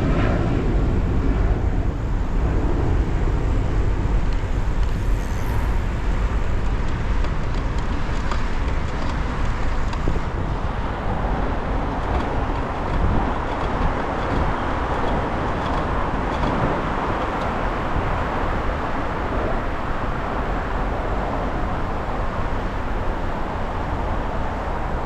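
Steady road traffic noise with a heavy low rumble, heard while cycling.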